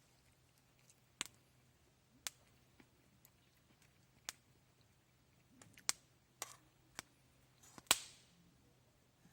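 Wood fire crackling: scattered sharp pops and snaps at irregular intervals, the loudest near the end.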